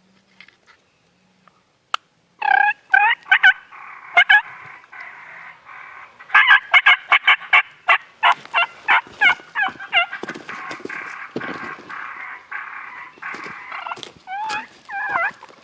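Wild turkey gobbling: repeated rattling gobbles, each a quick run of falling notes, starting about two seconds in and coming in several bouts close together.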